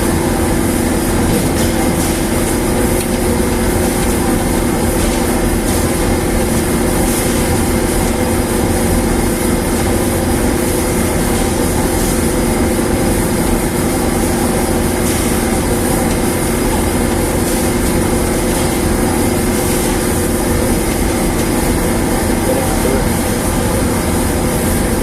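Newly installed dryer machine running: a loud, steady mechanical hum with a few constant tones over it.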